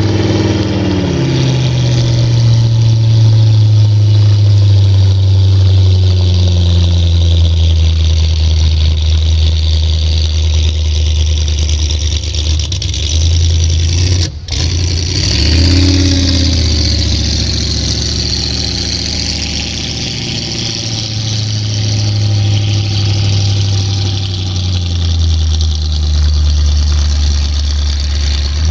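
Race-boat engine running loudly at a steady low idle. The revs fall away in the first second or so, and after a brief gap about halfway through it is revved briefly before settling back to idle.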